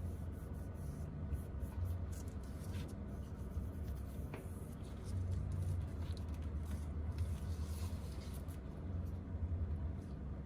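Light scratching, rubbing and small clicks of hand tools working on a phone, over a steady low hum.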